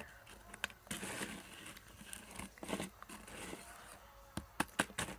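Crinkling and rustling of a snack packet and crunching of a dry noodle snack, with a run of sharp clicks near the end.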